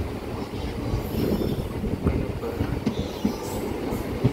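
MEMU electric passenger train running along the track, heard from on board at the open coach door: a steady rumble of wheels on rail with a few short clicks over rail joints.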